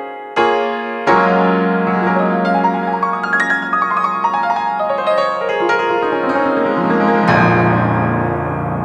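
Nord Stage 3 stage piano playing a layered patch of its Bambino and Mellow upright piano sounds: a chord, then, over a held bass note, a run of notes that climbs and comes back down, ending on a low held chord.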